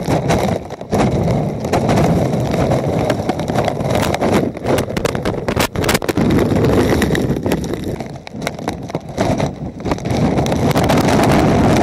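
Hurricane wind buffeting the microphone: a loud, ragged rumble with constant crackling knocks, cutting off abruptly at the end.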